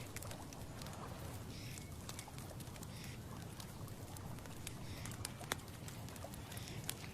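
Outdoor autumn ambience: a steady low wind rumble with leaves rustling and scattered small clicks. A faint soft call repeats about every one and a half seconds.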